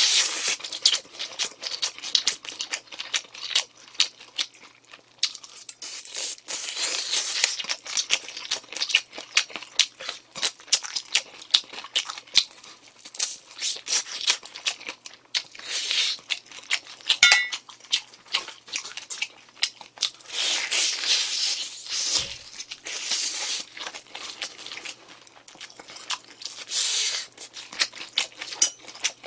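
Close-miked crunching and chewing of crispy-coated honey garlic fried chicken, in repeated bouts of crackly bites with short pauses between them.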